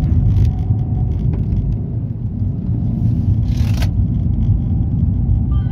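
Suzuki Swift Sport ZC32S's M16A 1.6-litre naturally aspirated inline-four running with a steady low rumble, breathing through an aftermarket intake filter and a GReddy sports catalyst exhaust manifold with the stock muffler. A brief hiss comes about three and a half seconds in.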